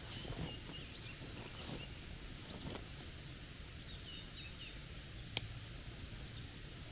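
Small birds chirping in short, rising calls, with a few sharp snaps or crackles, the loudest about five and a half seconds in, over a low outdoor background.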